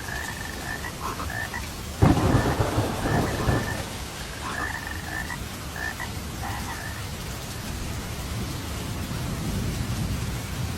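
Steady rain with a sudden loud thunderclap about two seconds in that rumbles away over the next two seconds. Frogs croak through it in short repeated calls, falling quiet in the last few seconds.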